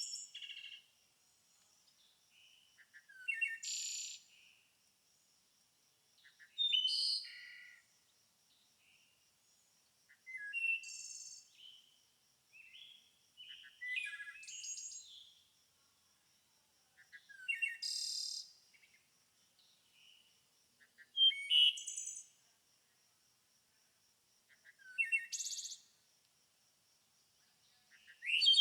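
A songbird singing short, high-pitched song phrases, repeated about every three and a half seconds with silence between them. A faint steady high tone runs underneath.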